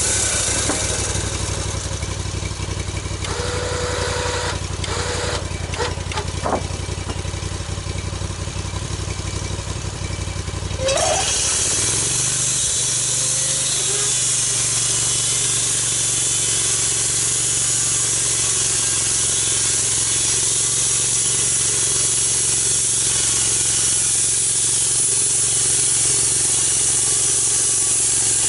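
Gas engine of a log-milling saw running slowly, with a few clanks, then throttled up about eleven seconds in; it holds at full speed with a steady high hiss of the saw cutting through the log.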